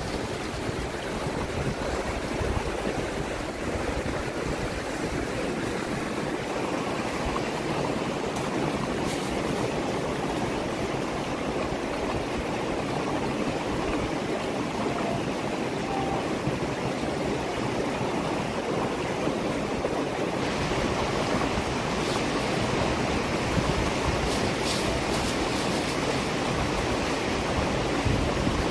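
Fast river water rushing steadily over rocks, a constant roar of moving water.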